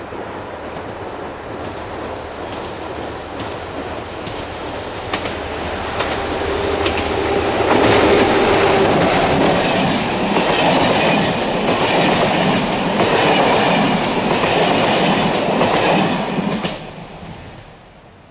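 A diesel-hauled passenger train approaching and passing close by: the locomotive's rumble grows, then the coaches go by with a rhythmic clickety-clack of wheels over the rail joints. The sound drops off abruptly near the end.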